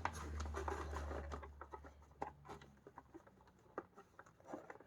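Faint scattered clicks and light rustling of plastic vacuum-cleaner parts being handled while the drive belt is fitted back onto the brushroll. A low hum fades out about three seconds in.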